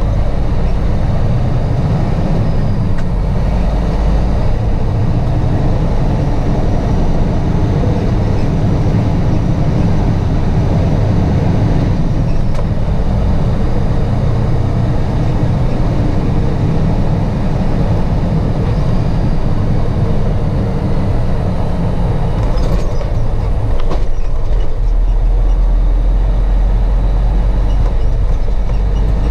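Heavy truck running: a steady, loud low rumble of engine and road noise.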